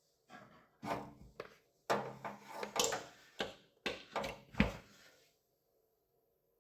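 Several knocks, clicks and rubbing noises over about five seconds, then a faint steady buzz from the idle Samsung MG23DG4514ATE6 microwave. The buzz comes while the oven sits plugged in but unused and is a fault: it stops when a button is pressed or the door is opened, then returns.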